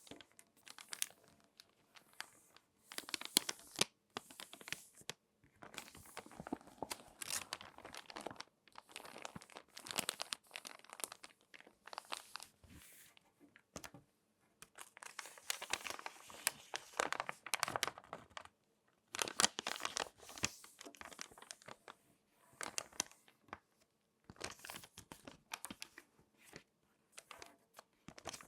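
Crinkly glossy magazine pages being folded and creased by hand, close up: irregular bouts of crackling and rustling paper with short pauses between them.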